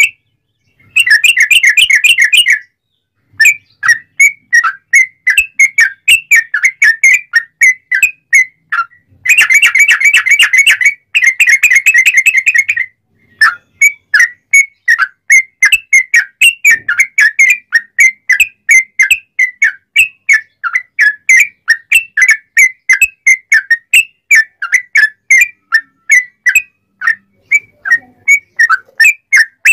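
Yellow-vented bulbul (trucukan) singing loudly in clear whistled notes. A fast rolling burst comes about a second in and a longer one around nine seconds, each followed by a brief pause. After that runs a long series of quick, evenly repeated notes, about three a second.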